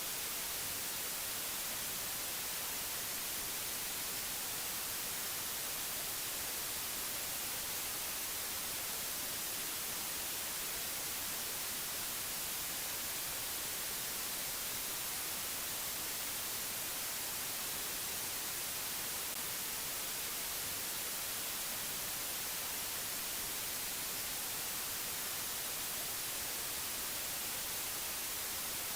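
Steady, unchanging hiss like white noise, brightest in the treble, with no other sound over it.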